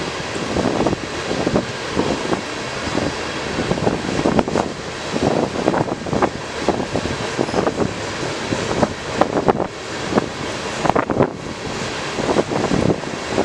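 A train passing close by: a steady rumble of wheels on rail broken by frequent irregular clanks, with wind buffeting the microphone.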